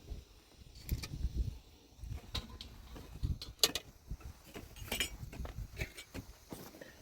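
Irregular light knocks and clinks with soft low thuds, a few sharper clicks around the middle.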